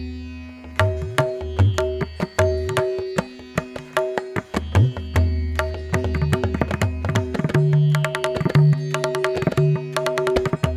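Tabla playing a composition in teental, with crisp, quick strokes on the treble drum and deep, booming strokes on the bass drum. Held melodic notes sound underneath. The strokes come faster and denser from a little past the middle.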